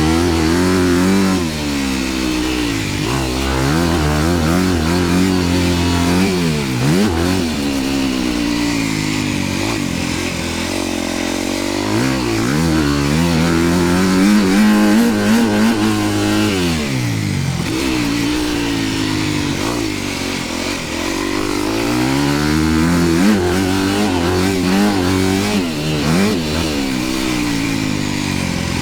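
Dirt bike engine revving up and down again and again as it is ridden around a motocross track, the pitch climbing under throttle and dropping every few seconds with gear changes and throttle-offs.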